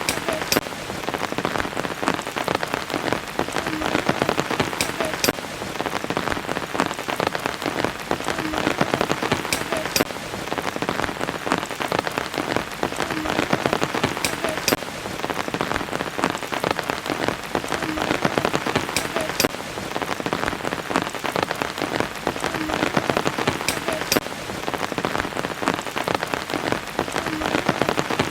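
Steady rain falling, with many close, distinct drop hits over a dense hiss. The same pattern of sounds recurs about every five seconds, as in a short looped recording.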